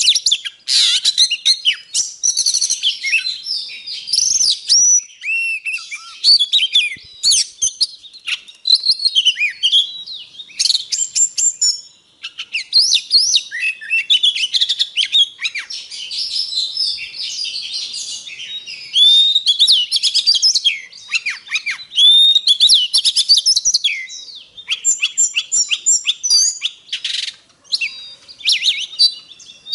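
Oriental magpie-robin singing continuously: a fast, varied run of whistled phrases, slurred rising and falling notes and sharp chips, with only brief pauses. It is a lure recording of the species' song, used to set caged birds singing.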